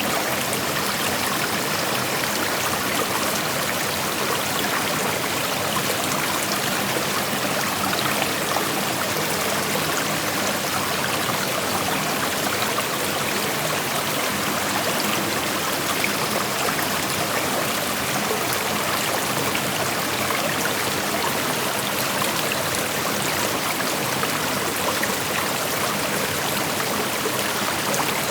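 Creek water flowing and rushing over rocks, a steady, even rushing sound.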